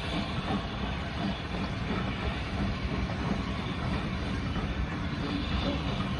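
USATC S160 2-8-0 steam locomotive and its train running steadily on the rails as it departs, a continuous rolling noise with no clear breaks.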